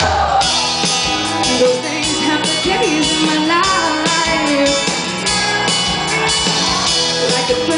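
Live band playing a rock-style song, with a singer, electric guitar, bass and drum kit.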